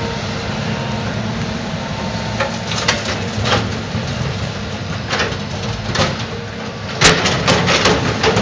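Terex 340LC excavator running steadily under work, with scattered metallic clanks and knocks that build to a burst of loud, sharp impacts near the end.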